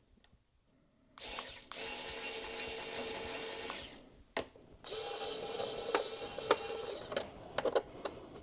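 Small electric screwdriver running in two steady whirring bursts of two to three seconds each, backing out the screws of a 2017 iMac's internal support bracket, with a few light clicks near the end.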